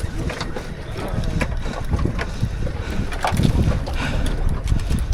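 Wind buffeting the microphone as an uneven low rumble, with a few light clicks and knocks scattered through it.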